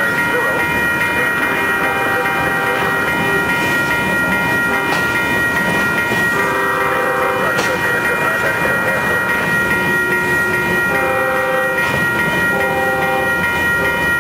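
A freight train of tank cars rolls past steadily, its wheels clacking over the rails. Over the rumble runs a continuous high whine, and shorter tones of several pitches come and go about four times.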